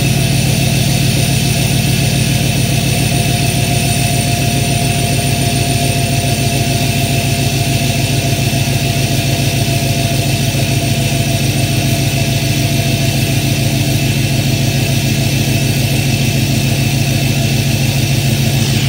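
Ford F-250's 6.7 L Power Stroke diesel V8 idling steadily through a 5-inch straight-pipe exhaust, with a fast, even exhaust pulse, shortly after a cold start.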